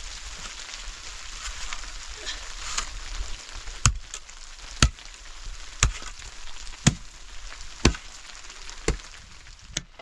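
Sharp knocks like chopping strokes, about one a second, starting about four seconds in, seven in all, over a steady hiss.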